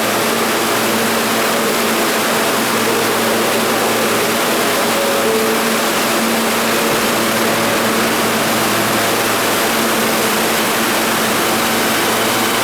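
R160 subway train in the station: a loud, steady rumble of wheel and running noise with a low steady hum underneath.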